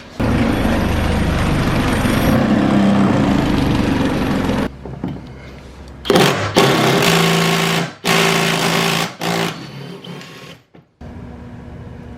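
Power driver running hard on a stuck screw: one long run of about four and a half seconds, then three shorter bursts, as it tries to break the fastener loose.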